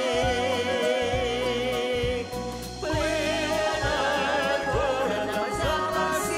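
A song playing: a long note with vibrato is held for about two seconds, then after a short break a new phrase starts about three seconds in, over a steady beat and bass.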